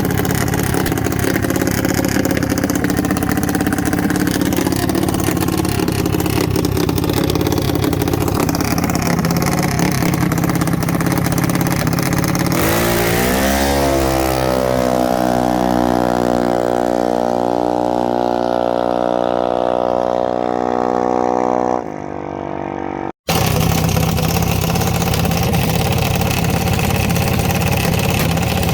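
Jr. Dragster's small engine running steadily, then revving up quickly about twelve seconds in and holding high revs for several seconds as the car makes its pass, before dropping off. After a sudden cut, a steady engine sound returns.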